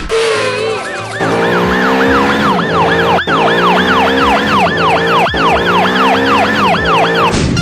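A quickly warbling siren-like tone, rising and falling about three times a second, over background music with held notes; it starts about a second in and stops just before the end.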